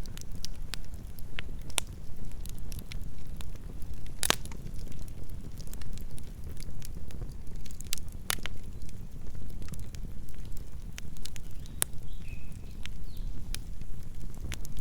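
Campfire burning: wood crackling with frequent sharp pops over a low rumble of flames, with one loud pop about four seconds in.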